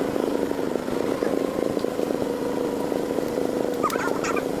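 Engine running steadily with a rapid, even rattling pulse. A few short high chirps come in near the end.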